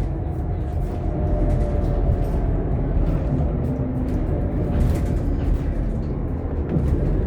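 Scania K230UB OmniLink bus's five-cylinder diesel engine running while the bus drives along, heard from inside the cabin as a steady low rumble with road noise.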